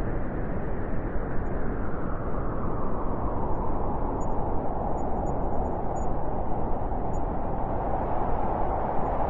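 A steady rushing noise with no distinct tones.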